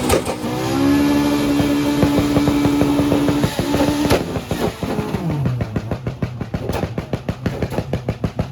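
A car engine being revved: a sharp pop as the revs climb, held high and steady for about three seconds, then dropping back to idle with a rapid, pulsing exhaust beat.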